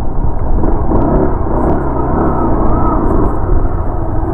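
Motorcycle riding along a rough, potholed road: steady engine and road noise under a heavy, continuous low rumble of wind on the microphone.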